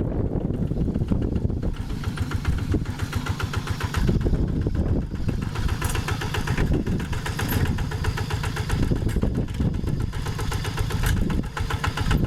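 Two-wheel hand tractor's single-cylinder Kubota diesel engine running steadily, its rapid firing beat continuing throughout.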